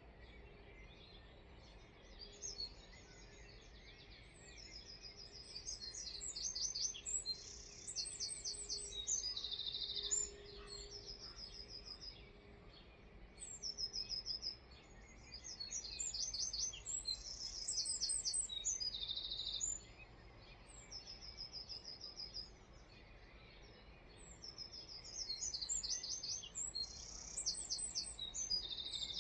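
A songbird singing: repeated high phrases of rapid trills and buzzy notes, in three bouts of several seconds each, with short single notes between the bouts.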